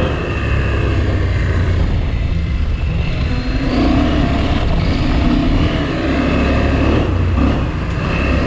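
Motorcycle engine running steadily while the bike is ridden, with a heavy low rumble.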